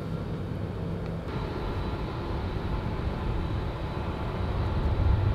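Low, steady rumble of distant jet aircraft engines at an airport, growing louder near the end.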